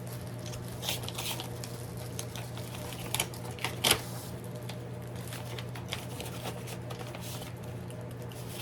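Paper rustling and crinkling as an envelope is opened and its contents handled, with a sharper crinkle about four seconds in, over a steady low hum.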